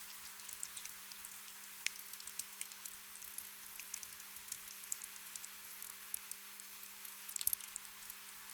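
Gentle rain: a steady soft hiss with many small drops ticking at irregular moments, and a short flurry of louder drops near the end.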